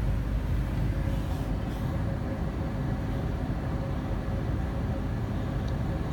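Amana 95 IIQ two-stage variable-speed gas furnace running steadily in first stage, its blower motor just come on after the burners lit, giving an even low hum and rush of air.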